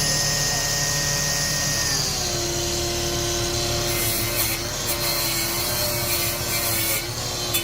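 Electric hand power tool running steadily against a workpiece, with a rubbing, abrasive sound; its motor pitch drops about two seconds in as it takes up load.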